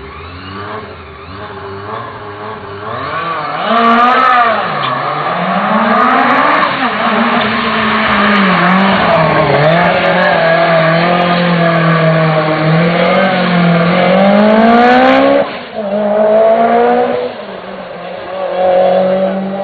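Lancia Delta S4 Group B rally car's twin-charged four-cylinder engine driven hard, its revs climbing and dropping again and again through gear changes. It gets much louder about three and a half seconds in and cuts briefly about fifteen seconds in as the throttle is lifted.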